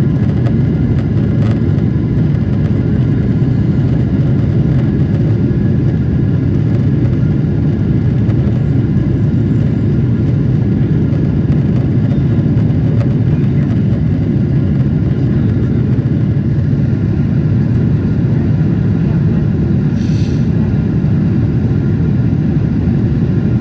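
Steady low rumble of engine and airflow noise inside the cabin of a Boeing 777-300ER airliner, with a brief hiss about twenty seconds in.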